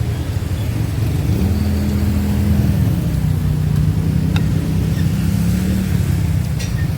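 A motor vehicle engine running close by, a steady low hum that shifts a little in pitch, over a loud low rumble, with a couple of faint clicks.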